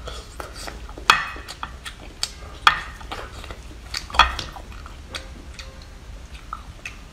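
Close-up wet chewing and mouth smacks of a person eating raw sea snail flesh. Many short clicks, the three loudest about a second and a half apart.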